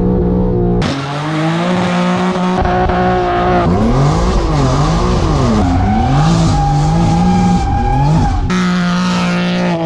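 BMW G80 M3's twin-turbo straight-six engine revving hard, its pitch swinging up and down with the throttle between stretches of steady running, with abrupt cuts about a second in and near the end.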